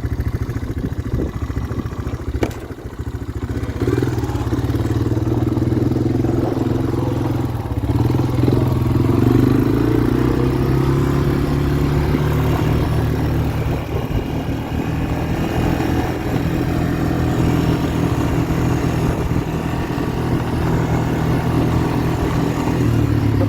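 Snowmobile engine running steadily, a little louder from about four seconds in.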